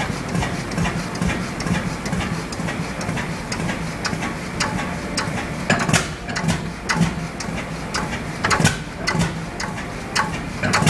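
Vintage engine running steadily with a low, pulsing beat, and from about six seconds in a number of sharp mechanical clicks or knocks.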